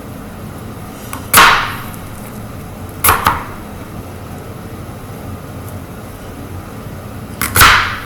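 A knife chopping through potato onto a cutting board: three sharp chops, about 1.5 s, 3 s and 7.5 s in.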